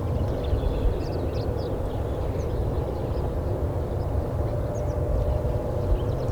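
Low, fluctuating rumble of wind on the microphone, with small songbirds giving short, faint chirps in the background.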